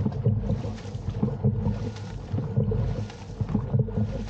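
Dragon boat crew paddling in unison: a rush of water with each stroke, about one stroke every 1.2 seconds, over a steady low rumble.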